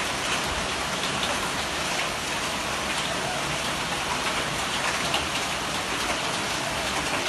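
Hailstorm: hail and rain pelting down in a dense steady hiss, with many scattered sharp ticks of large hailstones striking.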